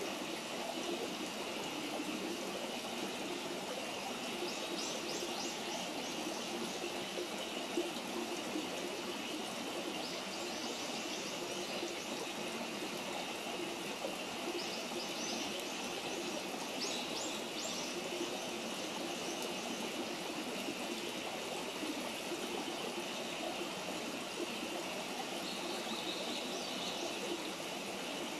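Steady outdoor rushing like running water, with short high bird chirps several times over it.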